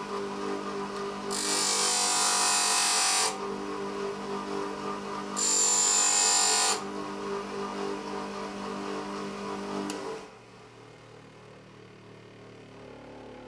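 A small power tool's motor running steadily, with two loud bursts of abrasive grinding against the steel of a wood drill bit being shaped, the first about two seconds long and the second shorter. The motor is switched off and winds down about ten seconds in.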